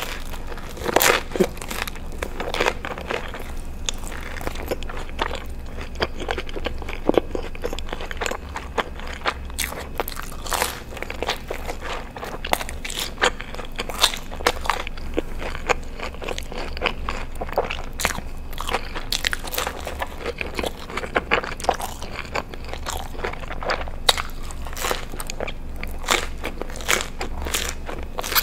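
Close-miked biting and chewing of a thick-crust pepperoni pizza slice topped with ranch: irregular crisp crunches of the crust and mouth clicks, over a low steady hum.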